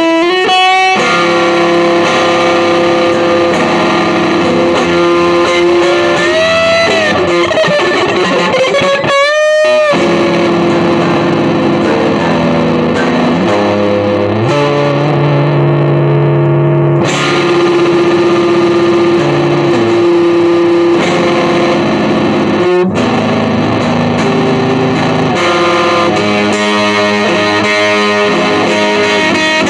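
Electric guitar played through effects and distortion, with long sustained notes and sliding pitch bends, and a brief break about a third of the way in.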